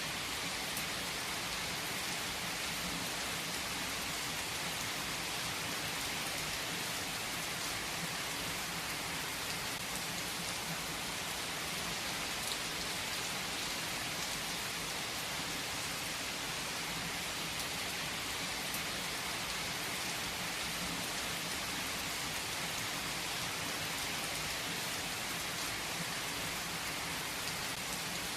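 Steady rainfall, an even hiss of rain pattering on surfaces with the tiny ticks of individual drops.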